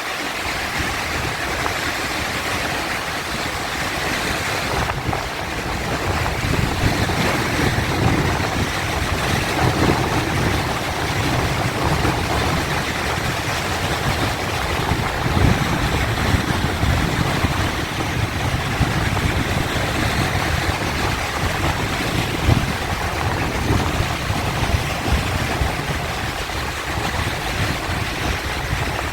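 Sea waves breaking and washing, a continuous noisy wash of surf with heavier low surges that swell and ease every few seconds.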